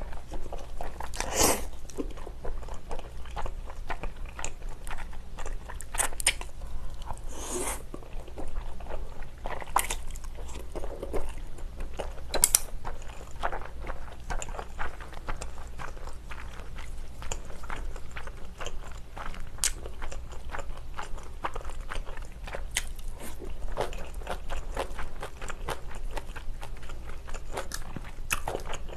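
Close-miked chewing of a mouthful of spicy stir-fried pork and rice: a steady run of wet smacking and crunching mouth sounds, with a few louder bites in the first dozen seconds.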